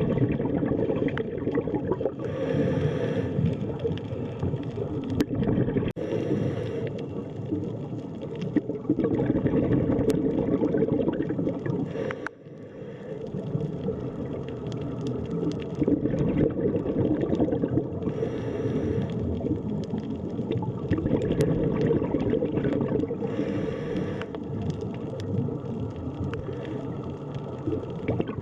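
Underwater sea ambience: a continuous low, churning wash of water with bubbling and gurgling, briefly dropping away about twelve seconds in.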